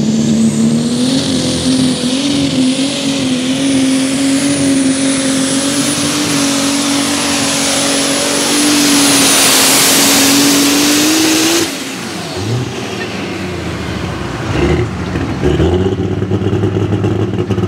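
Case light super stock pulling tractor's turbocharged diesel engine running flat out under load down the track, with a steady high turbo whistle over the engine note, which creeps up in pitch. About twelve seconds in the throttle is cut abruptly, marking the end of the pull, and the engine drops to a lower, rougher note.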